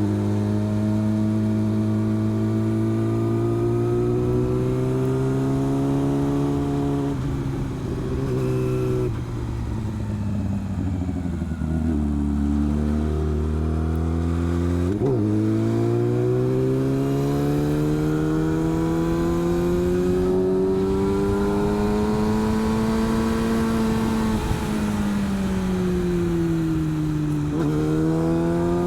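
Motorcycle engine under way, its pitch holding steady, then sinking as it slows, then climbing again after a sudden jump about halfway through. The revs fall once more near the end and pick up again.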